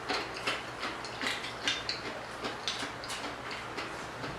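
Close-up eating of crispy fried noodles in wonton soup: irregular crisp crunches and clicks, two or three a second.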